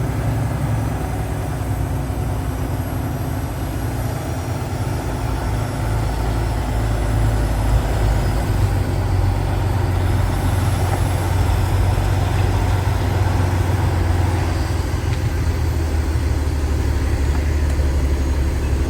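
A vehicle's engine running as a steady low rumble, heard from inside the cab, growing louder about six to eight seconds in.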